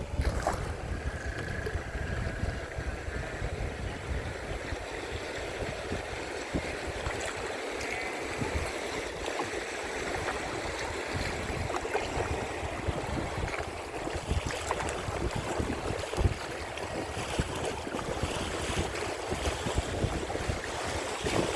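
River water rushing and splashing around a kayak, with irregular small splashes and wind buffeting the phone's microphone in a low rumble.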